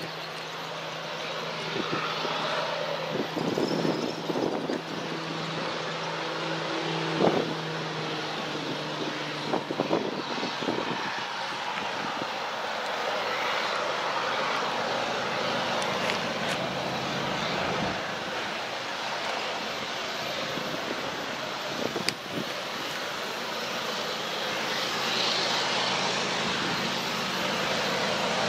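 Diesel freight locomotives running, with wind noise on the microphone and a few short knocks, the sound slowly growing louder toward the end.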